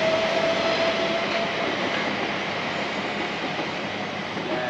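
Train running past on the line, a dense rumble and rattle of wheels on rail with a steady high tone that fades out about a second and a half in, the whole noise slowly dying away.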